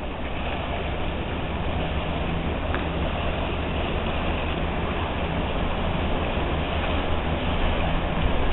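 A boat's engine running steadily, a low hum under a rushing noise.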